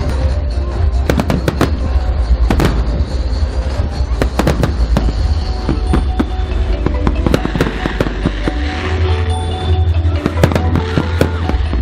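Aerial fireworks bursting in quick, irregular succession, some with crackle, over a deep rumble and background music.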